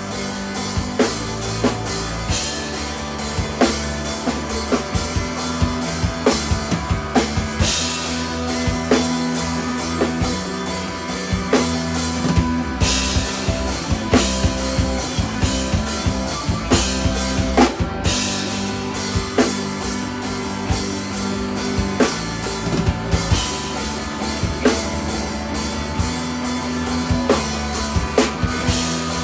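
Three-piece instrumental rock band playing live: a drum kit with steady, busy hits under sustained guitar chords.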